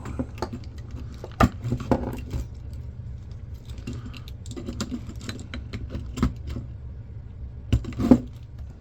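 Small metal parts and hand tools clinking, scraping and knocking as a 1982 General Electric camcorder is taken apart, with a few sharper knocks among lighter clicks, over a steady low hum.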